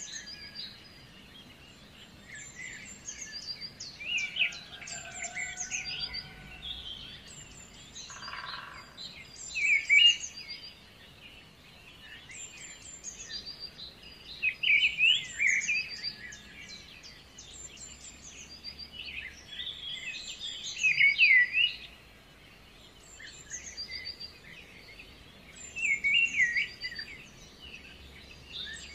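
Birds chirping and singing, the calls coming in clusters every few seconds over a faint steady background.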